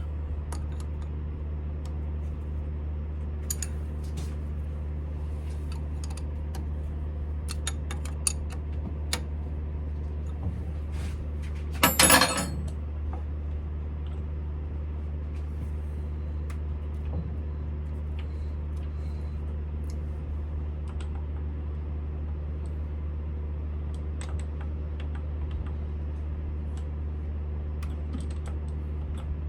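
Smithy CB-1220XL combination lathe running with a steady low hum. Small metallic clicks and taps sound on and off over it, with one short, louder metallic clatter about twelve seconds in.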